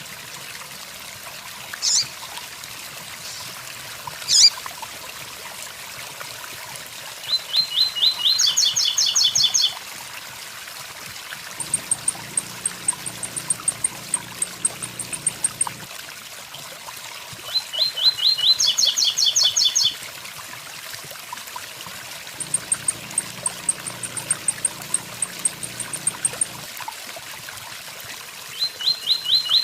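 Blue-black grassquit (tiziu) singing its "tui tui zel zel" song, a quick run of clipped notes repeated about every ten seconds, with runs of fast, very high ticking notes in between. Under it all is the steady rushing hiss of a waterfall.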